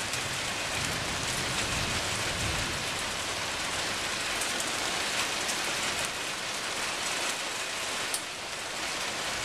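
Steady heavy rain falling in a thunderstorm, with a low rumble of thunder under it in the first few seconds.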